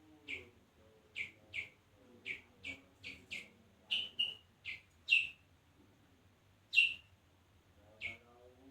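Kutilang sutra bulbul calling in short, sharp chirps, a dozen or so at irregular spacing, each a quick falling note, with the loudest about two-thirds of the way through.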